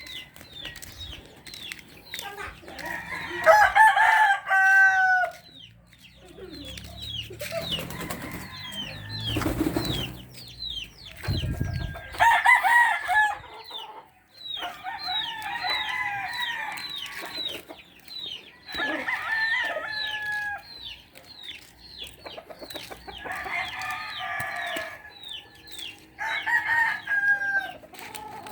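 Roosters crowing again and again, about six crows of one to two seconds each, over a run of short high chirps and clucks from the flock. A few seconds of rumbling noise come in about a third of the way through.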